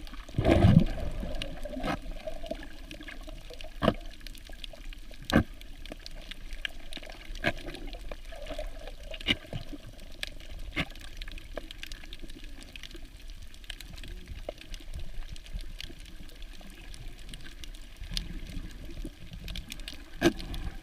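Underwater ambience recorded through a camera housing: a steady low water rush with scattered sharp clicks every second or two. There is a louder gurgling rush about half a second in.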